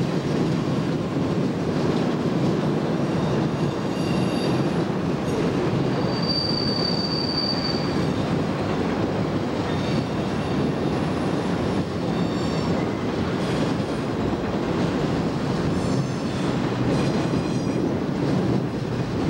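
A train rolling by with a steady rumble of wheels on rail. High-pitched wheel squeals come and go several times, with one longer, louder squeal about six seconds in.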